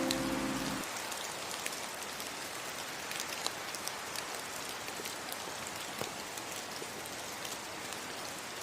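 Steady rain with scattered drop ticks. The last ukulele chord of the song before rings out and dies away within the first second.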